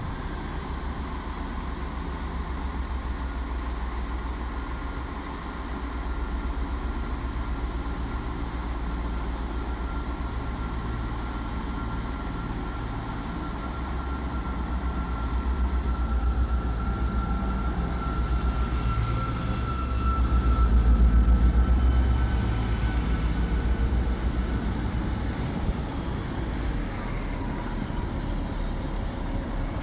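A train running past: a steady low rumble with a faint high whine, getting louder about twenty seconds in.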